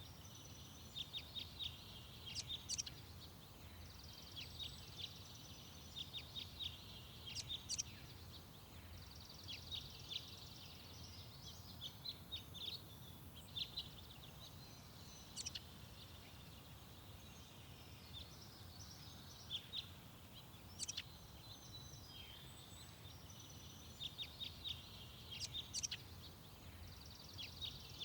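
Small garden songbirds singing: short phrases of quick high notes and trills that come every few seconds, over a steady low background rumble.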